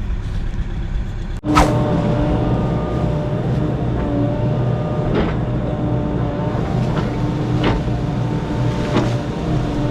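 Heavy equipment's engine running steadily while the machine works, with a steady whine over the low hum and a few sharp knocks.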